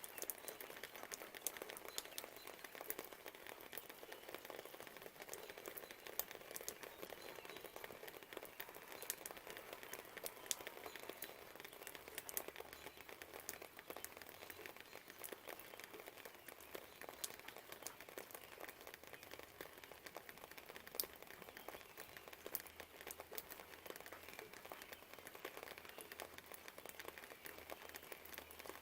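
Faint, steady light rain, with many small sharp drop clicks scattered throughout over a soft hiss.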